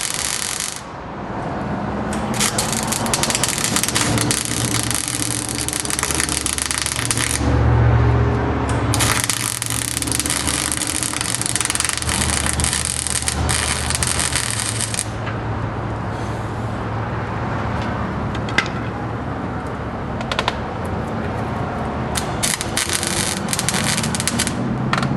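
Arc welding a patch panel into a pickup's cab corner: a crackling, sizzling hiss in runs of a few seconds each, starting and stopping about five times, over a steady low hum.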